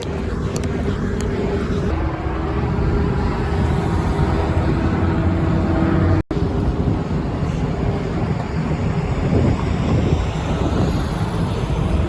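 Loud, steady vehicle noise, heaviest in the low end, with a momentary dropout about six seconds in.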